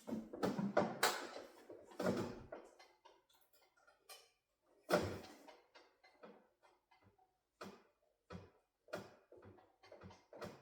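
Hands handling things in and around a new refrigerator: irregular knocks, clicks and clatters, a dense cluster in the first two and a half seconds, another knock about five seconds in, then scattered single taps.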